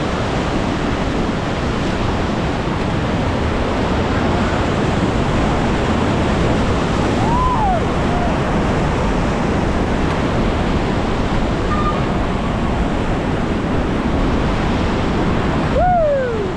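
Steady rush of river rapids under a raft, mixed with wind on the microphone. Two short voice calls with a gliding pitch cut through, one about halfway through and one near the end.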